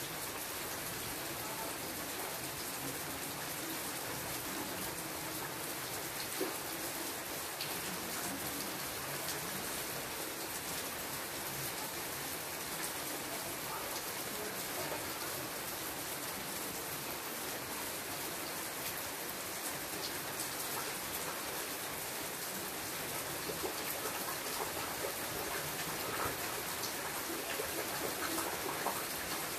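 Steady rain falling on the leaves of a shrub, a constant hiss with scattered single drops ticking through it.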